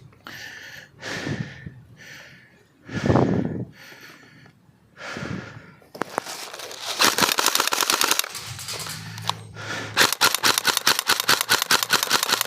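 Airsoft electric rifle firing two full-auto bursts of rapid clicking shots, the first about six seconds in and lasting a couple of seconds, the second starting about ten seconds in. A few short soft sounds come before the bursts.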